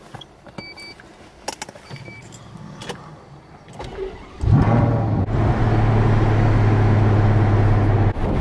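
Two short electronic beeps and a few soft clicks in the cabin, then about four and a half seconds in the Ferrari FF's V12 is started from the steering-wheel button. It fires with a brief flare and settles into a loud, steady idle.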